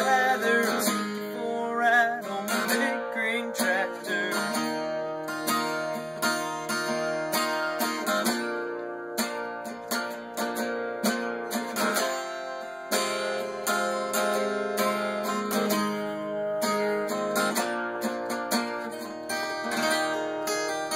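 Acoustic guitar strummed through a country song's closing chords. A wavering sung note carries over the first few seconds, then the guitar plays alone.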